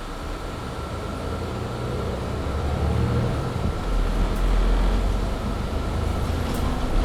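Mercedes-Benz Citaro C2 G articulated bus accelerating under full-throttle kickdown, its engine noise building steadily into a deep rumble. A thin, steady whine from the loud cabin heater runs over it.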